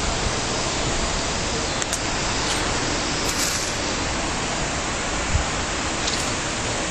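Strong storm wind rushing steadily and buffeting the microphone with a heavy low rumble, with a short low thump about five seconds in.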